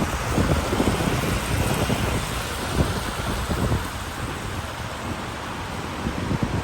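Steady rain with uneven low rumbling gusts, which ease about four seconds in.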